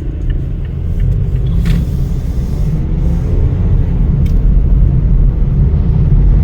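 Car driving along a road: a loud, steady low rumble of engine and road noise.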